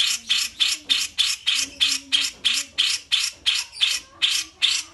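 Bulbul (cucak jenggot or kapas tembak) giving a fast, even series of harsh rasping notes, about four a second.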